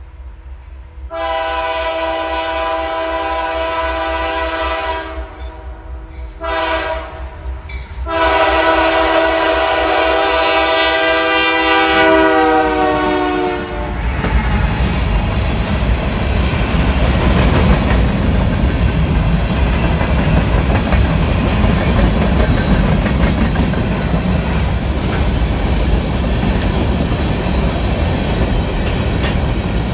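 Freight locomotive's multi-note air horn sounding three blasts, long, short and long, the last dropping in pitch as the engine passes. Then the steady rumble and clickety-clack of covered hopper cars rolling past on the rails.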